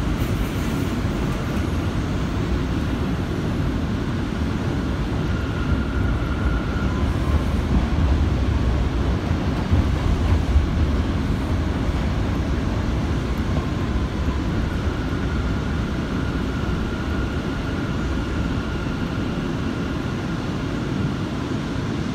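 J train subway car running with a steady low rumble. A faint high whine comes in about six seconds in and again from about fifteen seconds on.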